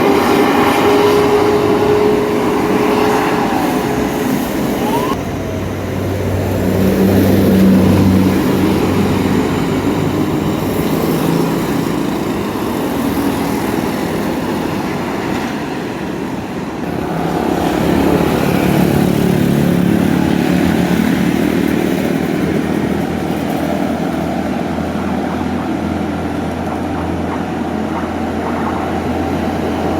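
Road traffic passing: vehicle engines and tyre noise, with a heavy diesel vehicle's engine swelling past about seven seconds in, and another heavy engine hum building from about eighteen seconds on.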